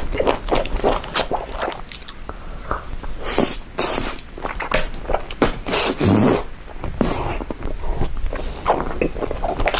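A person eating close to the microphone: chewing and biting food, with irregular wet smacks and crunches.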